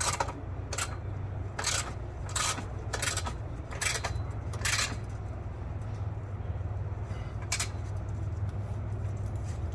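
Ratchet wrench worked in short strokes, tightening the exhaust clamp bolts: a run of sharp metallic clicks a little under a second apart, then a pause and one more near the end, over a steady low hum.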